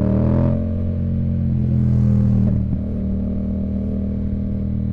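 Yamaha MT-07's parallel-twin engine pulling at steady revs while riding. The note climbs slightly at first, holds, and drops in pitch near the end as the throttle comes off.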